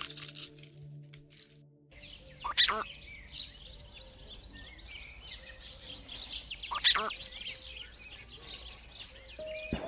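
Birds chirping, many small calls overlapping, with two louder calls about four seconds apart.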